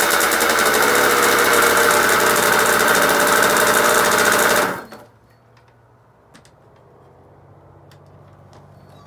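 Kawasaki KX60 60cc two-stroke single running, its revs wavering up and down, then the sound cuts off abruptly about halfway through, leaving a quiet background with a faint low hum and a few light clicks.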